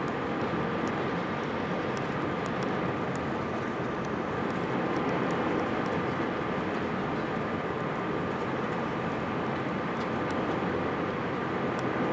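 Steady jet airliner cabin noise from engines and rushing air, with a thin steady whine running through it.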